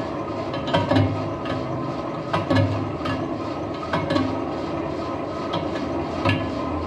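Metal lathe turning a truck wheel rim, running with a steady hum while the cutting tool scrapes and knocks on the rim about every second and a half.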